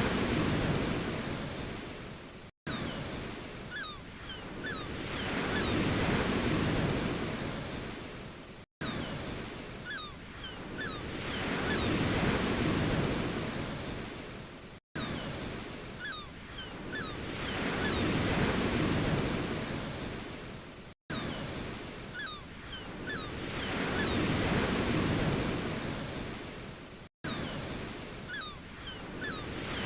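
Ocean waves breaking and washing up the shore, swelling and fading about every six seconds. Each surge ends in a brief total cutout, so it is a short recording looped. Faint short high chirps recur at the same point in each cycle.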